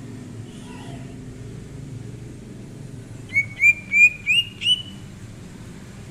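Cucak ijo (green leafbird) singing a short phrase of five quick rising notes, each a little higher than the last, about three seconds in, over a steady low rumble.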